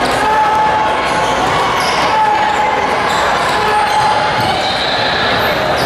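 Basketball game heard in a gym hall: a ball bouncing on the court against steady crowd and player chatter, with a few short squeaks.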